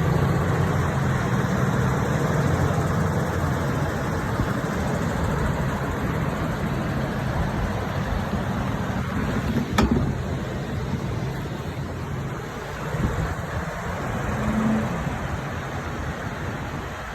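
An engine running steadily with a low hum over noisy rushing, fading away about two-thirds of the way through; a single sharp click about ten seconds in.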